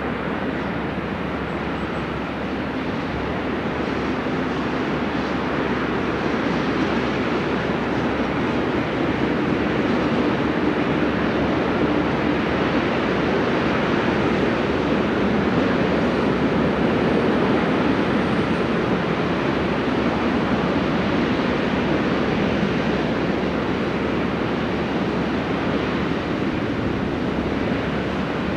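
Long freight train rolling along the mountain line, a steady rumble of wheels and wagons that grows louder toward the middle and eases off slightly near the end, mixed with wind buffeting the microphone.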